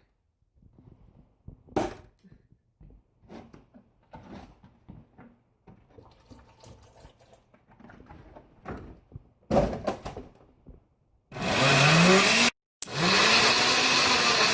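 Soft knocks and clatter of things being handled. Then, about eleven seconds in, an electric blender starts up loud, its motor whine rising in pitch as it spins up. It cuts out for a moment and starts running again.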